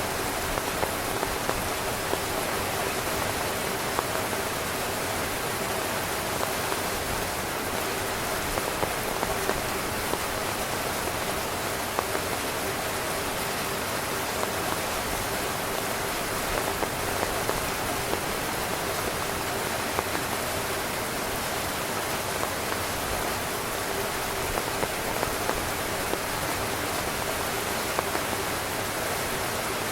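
Steady heavy rain falling on a tent: a constant hiss with frequent small taps of drops striking the fabric.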